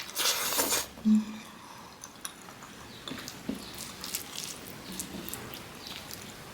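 Close-up eating sounds of a person eating spicy mutton curry: a loud noisy slurp-like burst, a short low hum about a second in, then soft wet mouth clicks and chewing.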